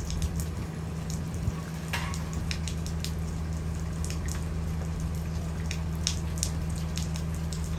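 Raindrops ticking and dripping close by at irregular moments over light rain, with a steady low hum from the school bus engine idling underneath.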